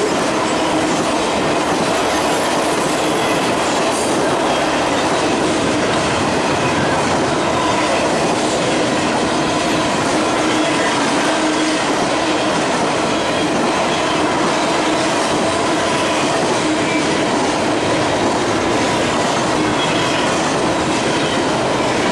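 A freight train rolling past: steady wheel and rail noise, with a faint squeal of wheels on the rails running through it.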